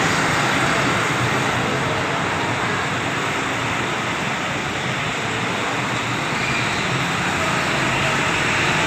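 Heavily loaded truck's engine running steadily, heard as a continuous even noise with a low engine tone underneath.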